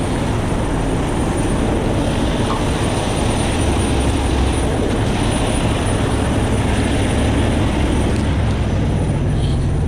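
Heavy rotator tow truck's diesel engine running steadily, a constant low hum with a hiss over it.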